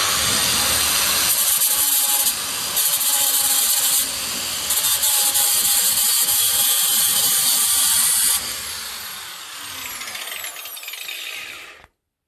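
4-inch angle grinder working on the boat's steel hull, loud and steady with a few brief drops in level, then switched off and winding down with a falling whine until it stops near the end.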